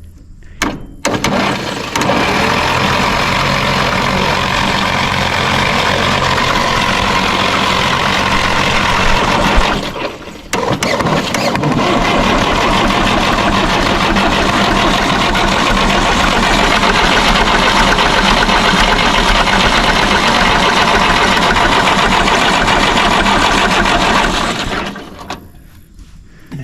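1954 Fordson diesel tractor engine being cranked over by its electric starter without catching. There are two long spells of cranking, broken by a short pause about ten seconds in.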